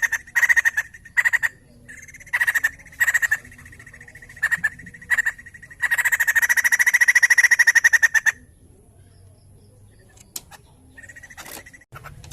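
White-crested laughingthrush singing in short bursts of rapid pulsed trills, then one long trill about six seconds in, after which only a few faint calls follow.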